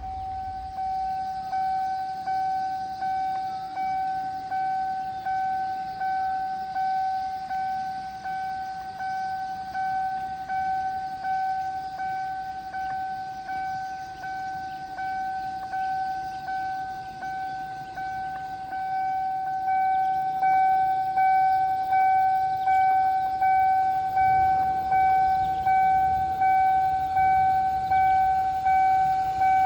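Electronic railway warning alarm: one steady pitched tone that pulses about once a second, growing louder about 20 seconds in.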